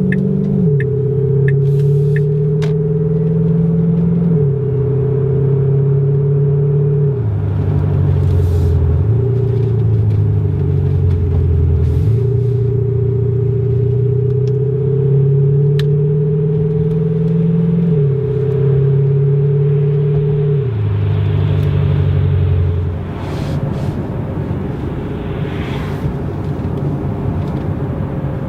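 Simulated sports-car engine note from a Tesla's active sound exhaust system. It climbs steadily in pitch and drops at each simulated gear change, several times over, as if accelerating through the gears. After about twenty seconds it gives way to a rougher, steady rumble.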